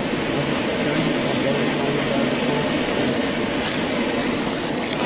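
Steady noise of a car engine idling close by, mixed with clothing rustling against a body-worn camera.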